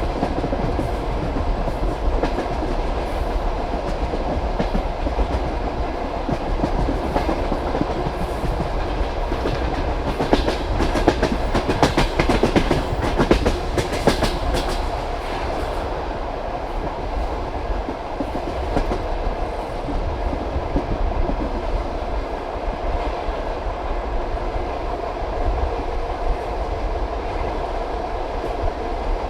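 Passenger carriage wheels clattering over rail joints at speed: a steady rumble with clickety-clack, heard at the carriage window. Between about ten and fifteen seconds in, the clacks come thicker and louder.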